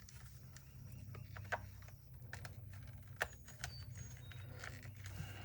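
Light clicks and taps of a cordless drill's plastic housing and parts being handled during disassembly, with two sharper clicks about a second and a half and three seconds in, over a faint steady low hum.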